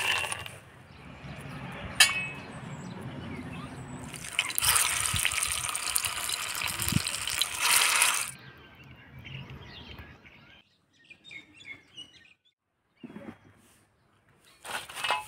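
Soya chunks splashing into a steel pot of water, with one sharp knock about two seconds in. Then soya kebabs frying in shallow oil in a pan give a loud, even sizzle for a few seconds, which stops abruptly; only faint scattered sounds follow.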